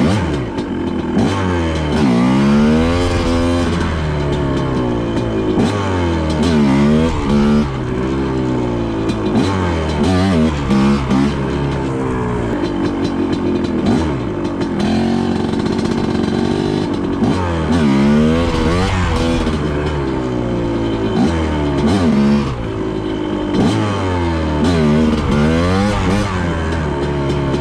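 TM Racing MX250 250cc two-stroke dirt bike engine revving hard again and again. Its pitch climbs steeply and drops back every second or two as the bike is ridden and shifted.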